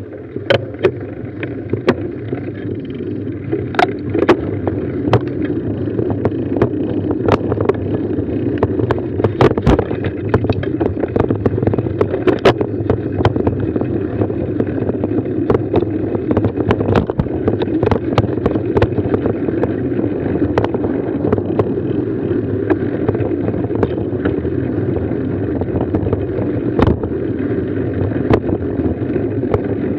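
Steady wind rush and rumble of a mountain bike riding along a trail, with frequent sharp knocks and rattles over the bumps.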